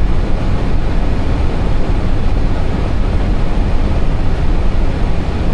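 Airbus A320 cockpit noise on final approach: a loud, steady rush of noise, heaviest in the low end, with no breaks or separate events.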